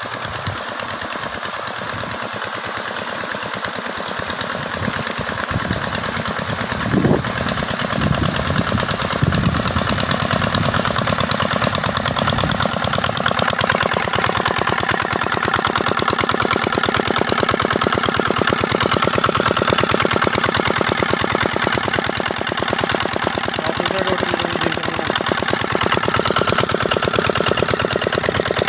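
Auto-rickshaw engine running steadily with a rapid, even beat, driving a line of paddle-wheel pond aerators. It grows somewhat louder over the first several seconds, then holds steady.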